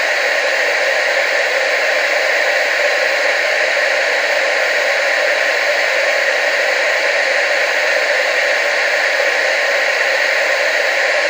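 Television static: a steady, even hiss with no change, thin in the bass and strongest in the middle range.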